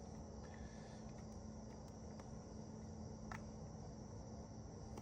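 Faint steady background: a continuous high-pitched tone with a low hum beneath it, and a few faint ticks of light handling.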